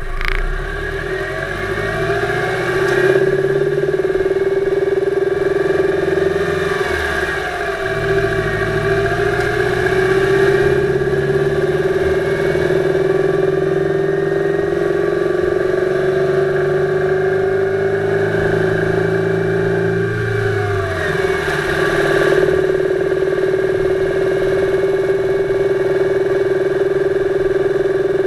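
2008 Subaru Impreza 2.5i's 2.5-litre flat-four engine running while driven, heard from inside the engine bay above the timing belt cover; its note rises and falls several times with throttle and gear changes, over a steady tone. The engine is being driven to bring out an intermittent knock, which the owner describes as woody rather than metallic and loudest around 2500 rpm under light load.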